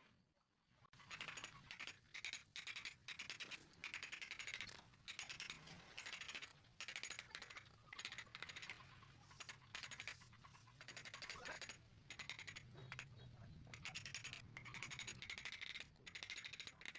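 Hand tool working wood in repeated strokes, each stroke a burst of rapid clicking and rasping lasting about a second, with short pauses between strokes.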